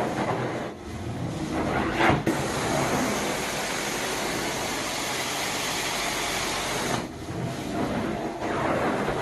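Carpet-cleaning machine's vacuum suction running, the steady rush of air changing and briefly cutting back as the wand is worked over the carpet, with a sharp dip about seven seconds in.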